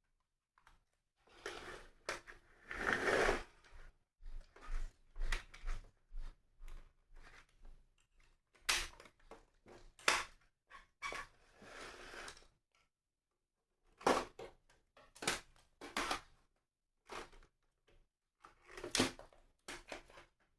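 Plastic N-gauge model platform parts being handled and fitted together: irregular clicks, taps and short rustles. The longest rustle comes about two to four seconds in, and a run of sharper clicks comes near the end.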